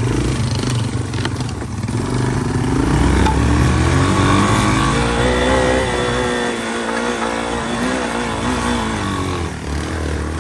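Off-road motorcycle engine pulling under load on a trail, revving up a couple of seconds in, holding high revs, then dropping off near the end.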